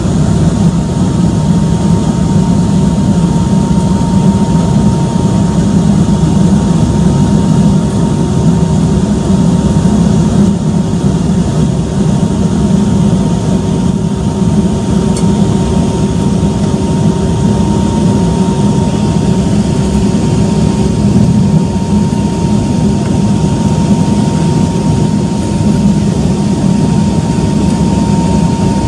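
Inside the cabin of an Embraer 195-E2, its Pratt & Whitney PW1900G geared turbofan engines running at high power with a loud, steady rumble and a steady whine. A fainter second tone fades out about two-thirds of the way through.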